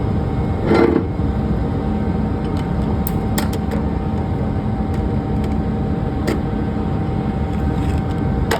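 A truck's diesel engine idling steadily, with a few short knocks and clanks over it.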